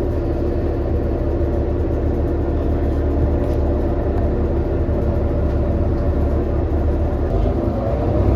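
Steady drone of a New Flyer XD40 diesel city bus running, heard from inside the cabin: a low rumble with a few steady tones above it.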